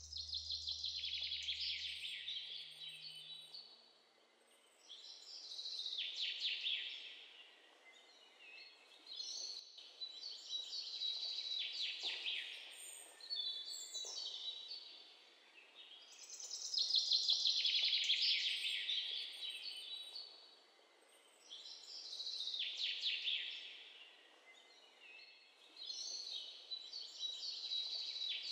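A songbird singing the same quick trilled phrase again and again, each a rapid run of notes falling in pitch and lasting about two seconds, repeated every four to five seconds over a faint steady background hiss. The last low notes of the score fade out in the first few seconds.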